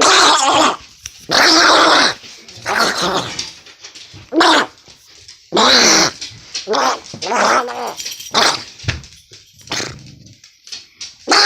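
A person making raspy, duck-like quacking noises with the mouth, a series of about ten loud, rough bursts of roughly half a second each.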